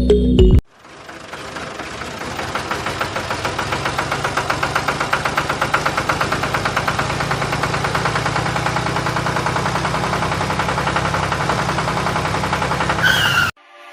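Small motor of a homemade toy tractor and water pump running steadily with a rapid, even pulsing rattle. It builds up over the first few seconds and cuts off abruptly near the end.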